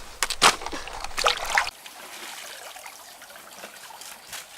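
Water splashing and trickling: a few quick splashes in the first second and a half, then fainter trickling and dripping.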